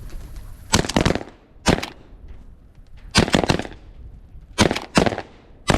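Volley of shotgun shots from several hunters firing at pigeons flushing off a grain bin: about a dozen sharp reports in five quick clusters, some shots overlapping.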